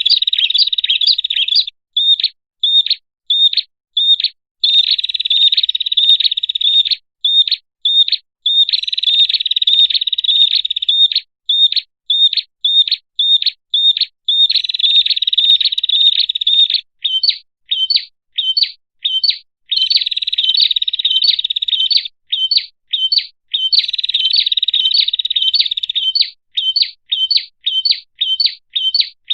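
Prenjak (prinia) calls played as a bird-trapping lure: sharp, high chirps repeated about three times a second, alternating with stretches of dense, fast trilling a couple of seconds long.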